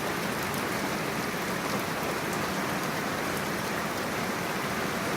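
Heavy, steady rain pouring down, with a few sharper drop ticks here and there.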